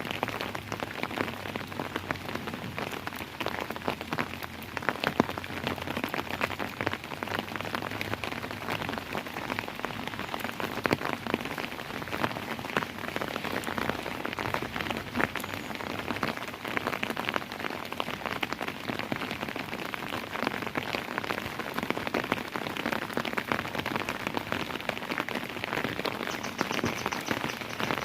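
Steady rain falling and pattering on a surface, a dense even hiss with many individual drops ticking through it.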